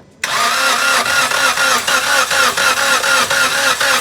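Suzuki Cultus three-cylinder engine being started by its starter motor after an overhaul, cutting in suddenly just after the start. The sound goes on with an even, rapid pulsing and a tone that wavers with each pulse.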